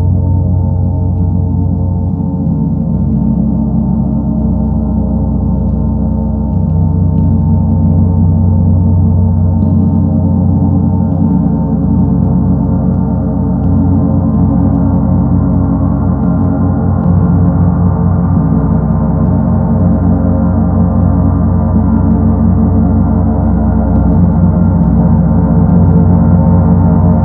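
Paiste Sedna gong sounding continuously with a deep, rumbling low drone. Its low tones pulse and beat against each other, and the sound swells a little about seven seconds in and again around seventeen seconds.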